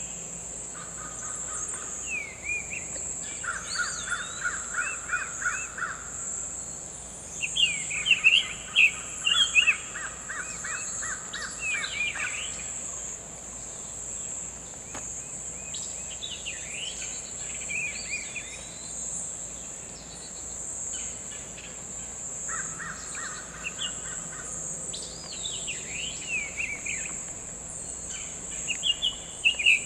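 Summer tanager singing short, sweet whistled phrases, repeated at intervals, over a steady high insect drone. Several times a rapid series of evenly spaced low pulses runs alongside the song.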